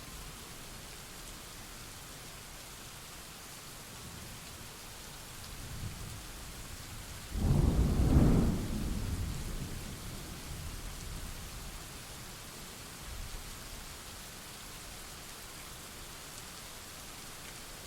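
Steady rain with a thunderclap: a low rumble builds, then a sudden loud crack about seven seconds in that rolls off into fading rumbles over the next few seconds.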